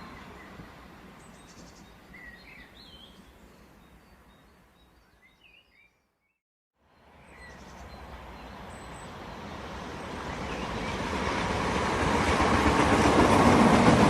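Passenger train running on the rails, heard from on board as a steady rumble that fades away to silence about six seconds in, then builds back up, loudest near the end. A few short bird chirps come in the first half.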